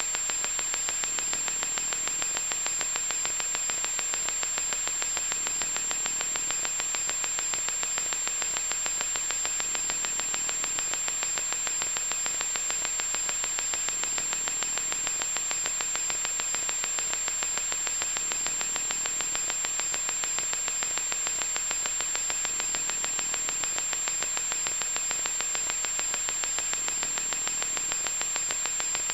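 Loud electronic static: a steady hiss, strongest in the upper range, with a fine fast crackle and a thin high-pitched whine running through it, unchanging throughout.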